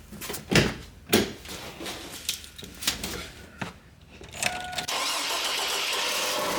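A few clunks and knocks and a brief chime. Then, about five seconds in, the 2002 Chevy Blazer's 4.3L Vortec V6 starts and keeps running with a steady loud noise. The owner suspects its catalytic converters are clogged.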